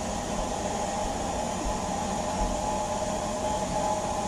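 HO-scale model train running: three GP7 model locomotives pulling a long string of reefer cars along the track, a steady rolling noise with a faint, even hum.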